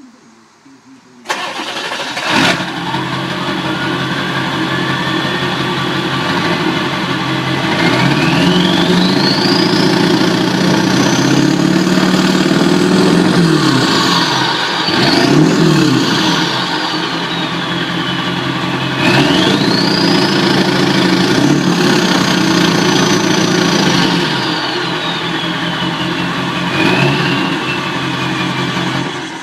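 Car engine starting suddenly about a second in and running, with a high turbocharger whistle that climbs as the engine is revved, falls back, then climbs and falls a second time.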